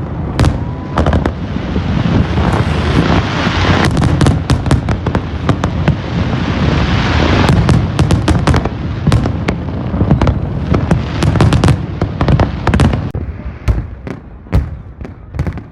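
Fireworks going off in rapid, overlapping bangs, with a dense hiss of crackle between about two and eight seconds in. The bursts thin out and get quieter after about thirteen seconds.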